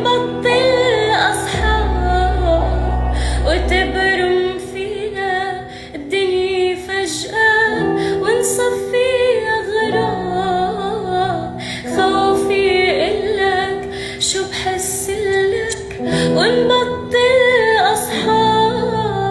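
A woman singing a melodic song over an instrumental backing with held bass notes.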